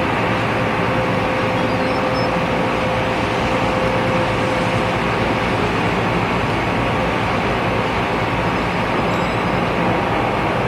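Steady jet aircraft engine noise, with a faint steady tone that fades out about halfway through.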